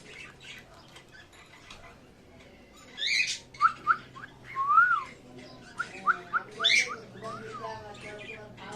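Baby parrot calling: after a quiet start, a run of short rising whistled chirps and a few longer arched whistles, with two harsher squawks about three seconds in and near seven seconds.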